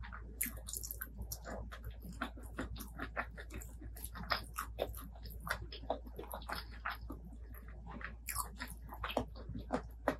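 A person chewing and biting food close to the microphone, a dense, irregular run of short mouth clicks several times a second.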